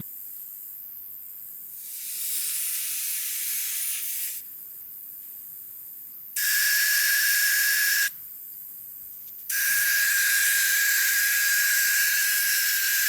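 Air hissing out of a 4WD tyre's valve as the tyre is let down for soft sand, in three separate releases: a softer one, then two louder ones with a steady whistle in the hiss.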